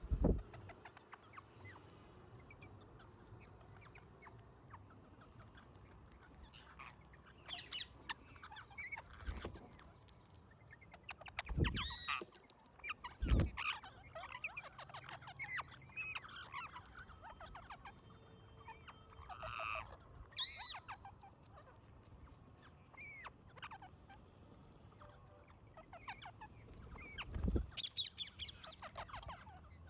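Pet parrots squawking and chattering in scattered bursts while they feed, with a few dull thumps now and then.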